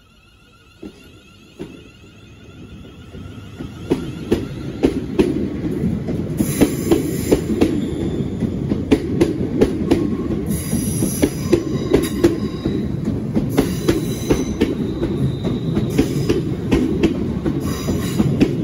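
Class 350 Desiro electric multiple unit pulling away from the platform, its running noise building over the first four seconds into a steady rumble as the carriages pass close, with repeated wheel clicks over the rail joints.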